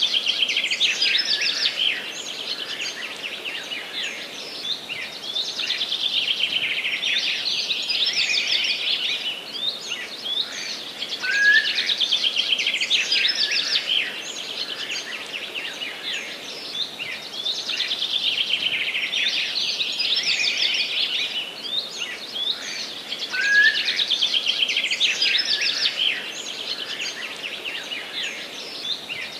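Forest birds singing in a dense, continuous chorus of overlapping chirps and rapid trills. The same passage repeats about every twelve seconds.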